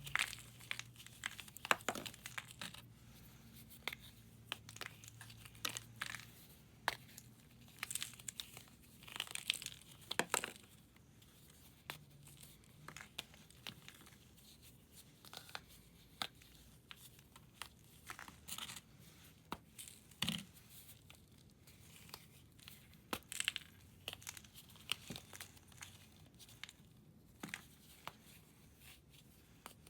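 Blocks of reformed powder, such as pressed gym chalk, being crumbled and shaved by hand: an irregular run of dry crunches and crackles, some sharper and louder than others.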